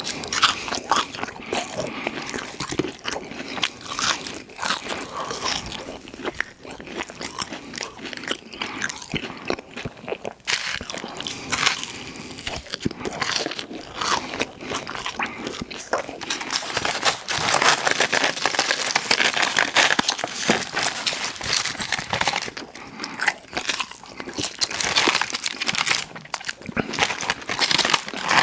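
Close-miked eating: biting and chewing crunchy fast food, a dense, continuous run of crunches and crackles.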